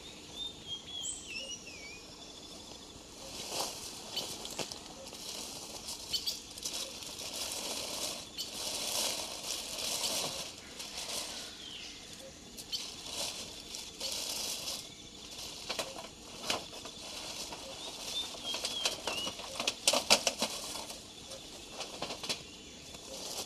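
Irregular rustling and scraping noises with a few sharp knocks, loudest around twenty seconds in, over a steady high insect note. Short falling bird whistles come in near the start and again about nineteen seconds in.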